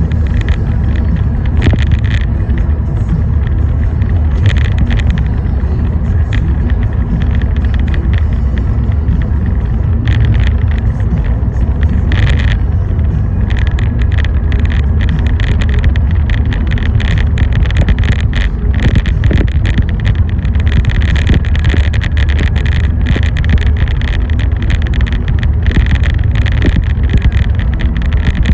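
Car driving in the rain: a steady low road and engine rumble, with irregular swells of hiss over it.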